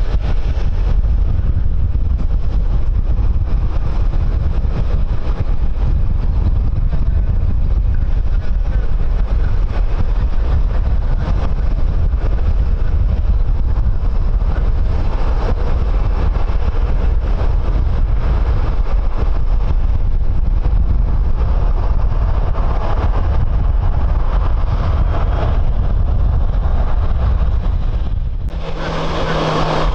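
Strong wind buffeting the microphone in a steady low rumble, with distant aircraft engine noise building as a hiss in the second half. Near the end the sound cuts abruptly to a louder, closer jet engine with a steady low hum.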